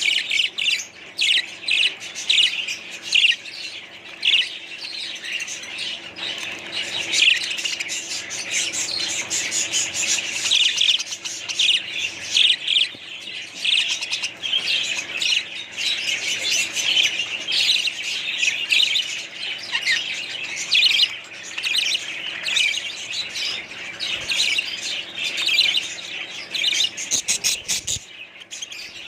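A flock of budgerigars chattering, with many overlapping quick chirps and squawks going on without a break.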